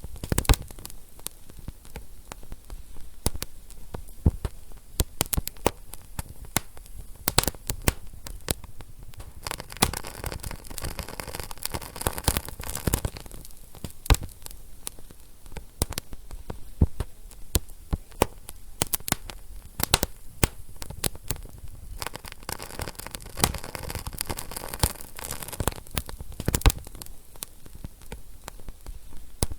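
Wood fire burning in a fireplace, with frequent irregular sharp crackles and pops over a steady low hiss.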